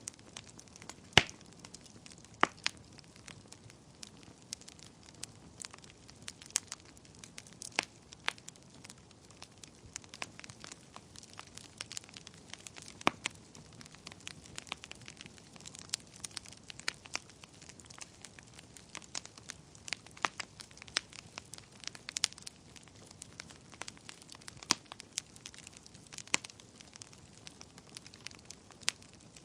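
Wood fire burning in a fireplace: soft hiss with irregular sharp crackles and pops from the burning logs, the loudest pop about a second in.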